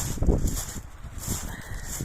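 Footsteps crunching on a shingle beach, about one step every two-thirds of a second, with wind buffeting the microphone in low rumbles, strongest just after the start.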